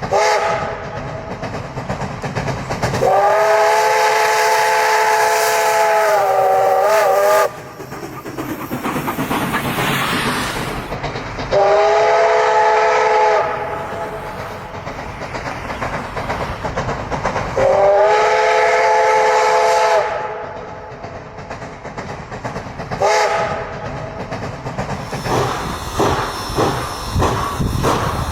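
Steam locomotive sounding its chime whistle in a series of blasts: a short one, a long one of several seconds, two medium ones, then a short one, over steady steam hiss and running noise. Near the end, even exhaust chuffs start at about three a second.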